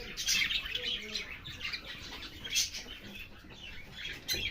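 A flock of small pet parrots chirping and twittering, many short overlapping calls, with two brief sharp clicks, one about halfway through and one near the end.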